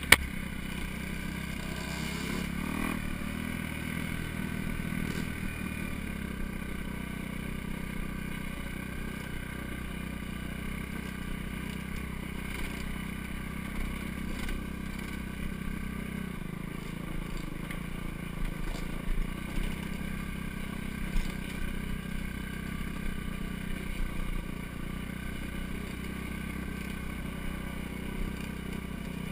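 Four-stroke dirt bike engine running at a steady pitch, with a sharp knock at the very start and a few short clatters later on.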